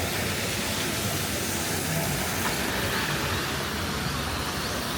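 Steady hiss of rain and traffic on wet city streets.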